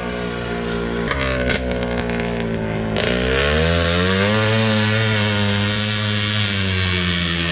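Rokon Cobra 340 MX motorcycle's two-stroke single-cylinder engine running as the bike is ridden. The engine note drops about a second in, then climbs from about three seconds and holds steady at higher revs.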